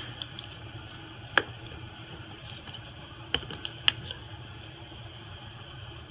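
Small repair tools clicking and tapping against an iPhone SE's internal parts, over a low steady hum. There is one sharp click about a second and a half in, then three quicker clicks between three and four seconds in.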